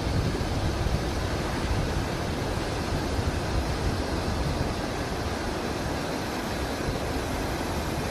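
Waterfall's steady rush of falling water, with low, fluttering wind buffeting on the microphone.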